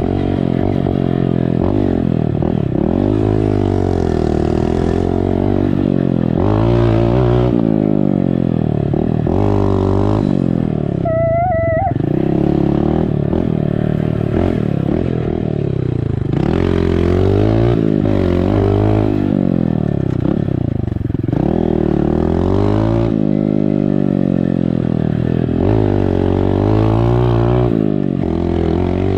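Dirt bike engine revving up and easing off again and again as it is ridden around, its pitch rising and falling every couple of seconds.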